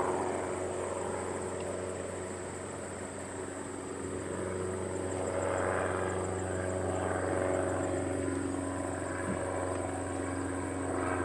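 Aircraft engine running with a steady hum and whine, growing a little louder toward the middle.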